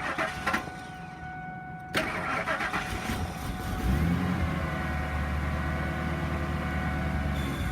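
2000 Ford F-350 dump truck engine cranking on the starter after a click. It catches on starting fluid about four seconds in, runs steadily for about three seconds, then dies. It can only run on the fluid because of a bad fuel pump.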